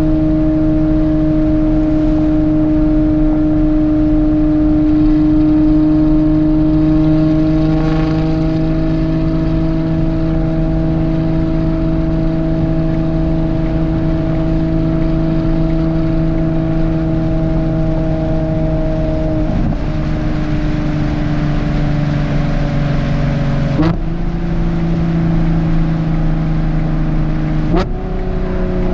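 Ferrari Purosangue's V12 engine, breathing through a Novitec race exhaust, running steadily at an even low engine speed. The engine note steps abruptly three times, at around 20, 24 and 28 seconds, as it changes gear.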